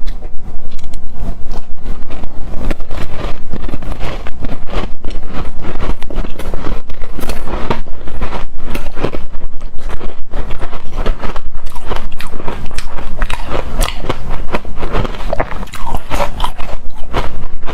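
Close-miked biting and chewing of hard frozen shaved ice: a dense run of loud, rapid crunches.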